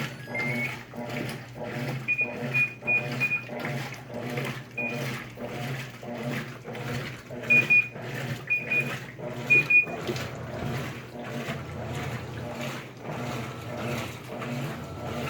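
Washing machines running, with a steady rhythmic churning about three to four times a second. Short high electronic beeps come in quick runs over it, loudest a little past the middle.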